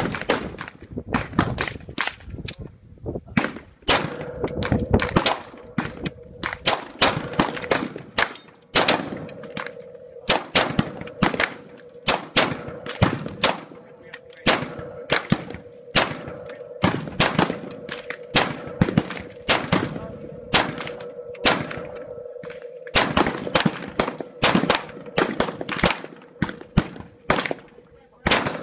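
Semi-automatic rifle fire: dozens of sharp shots, often fired several a second in quick strings with short pauses between them. A steady faint hum runs underneath.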